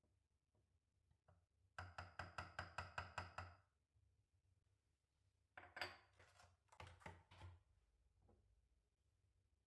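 Kitchen handling sounds: a quick, even run of about a dozen light knocks, about six a second, lasting under two seconds, then a few scattered knocks and clicks.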